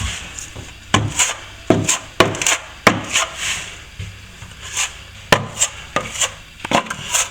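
A hand tool scraping and knocking against plaster in a series of short, irregular strokes, about a dozen, as the crack at the wall–ceiling joint is worked on.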